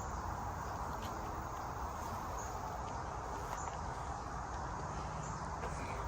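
Steady outdoor ambience: a continuous drone of insects with a low rumble underneath and a few faint clicks.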